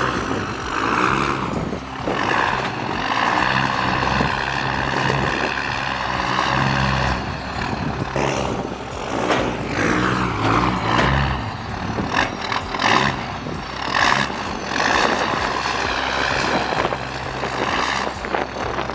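Diesel engine running, with a high whine that wavers up and down in pitch over the steady low engine note.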